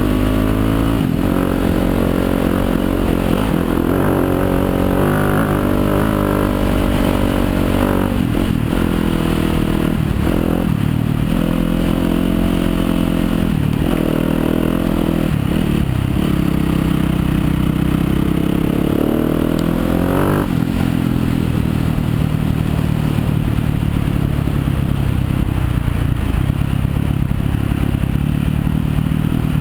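Yamaha YZ250FX's 250 cc four-stroke single-cylinder engine running under a rider on a trail, its pitch rising and falling with the throttle. There are several brief drops where the throttle is closed, in the first two-thirds.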